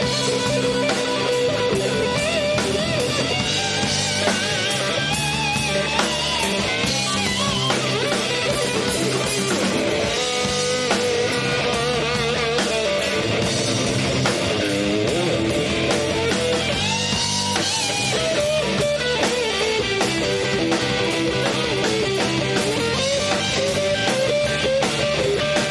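A band playing live through a PA, with guitars and a drum kit and a wavering lead melody over a steady beat.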